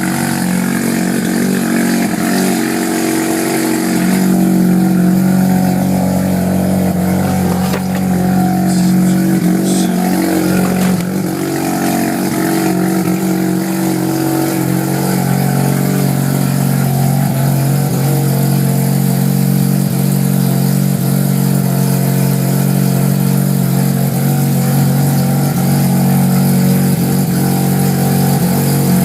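Street-ported Mazda 13B rotary engine in a 1982 RX-7 running steadily just after starting, its note rising a little about four seconds in and then holding at a fast idle.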